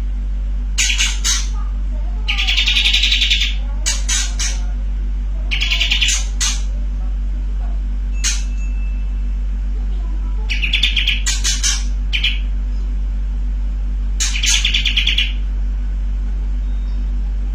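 Kapas tembak bulbul singing: repeated rapid rattling trills about a second long (the 'bren' burst song), with short sharp calls between them. A steady low hum runs beneath.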